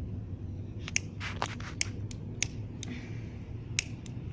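Smouldering potato chips in a pan crackling and popping: sharp, irregular snaps, several in quick succession about a second in and more spread through the rest, over a low steady rumble.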